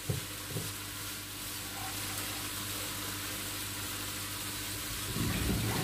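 Onions and potato pieces sizzling steadily as they fry in a Cookeo multicooker's pot, with a couple of light knocks at the start and some clatter near the end.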